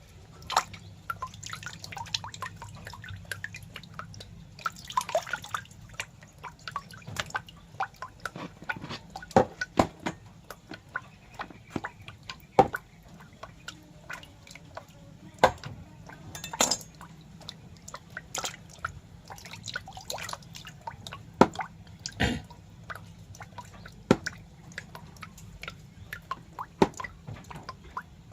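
Irregular small wet clicks or drips, a few every second and varying in loudness, over a steady low hum.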